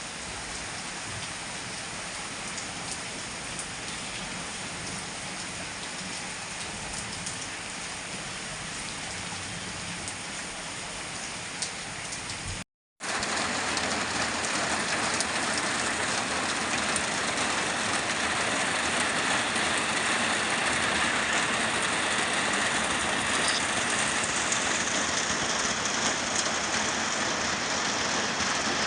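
Heavy rain pouring down in a steady hiss. A short break cuts in a little under halfway, and after it the rain is louder.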